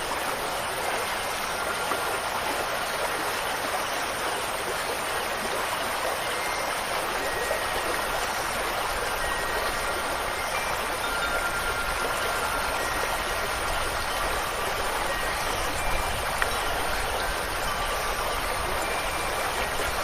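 Steady rushing water, like a stream or heavy rain, with faint wind chimes ringing now and then as thin high tones over it.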